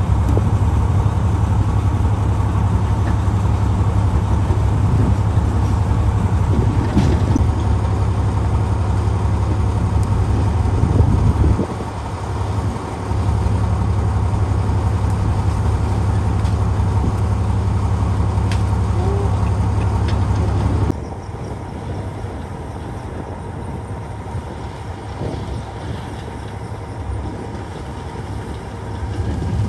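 Heavy diesel earthmoving machinery running, a loud, steady low engine drone. It dips briefly near the middle, then drops suddenly to a quieter engine sound about two-thirds of the way through.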